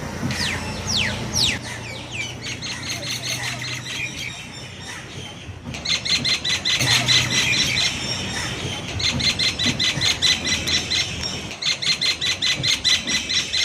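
Common myna calling: a few quick falling whistles, then long runs of fast, repeated high chattering notes with short pauses between them.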